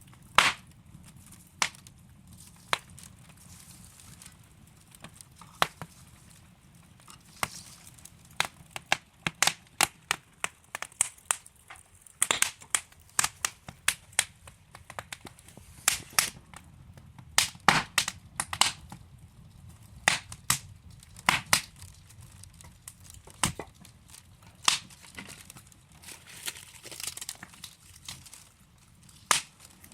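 Wood fire in a fireplace crackling, with irregular sharp pops over a low steady hiss. The pops come in quick clusters through the middle and are sparser at the start and end.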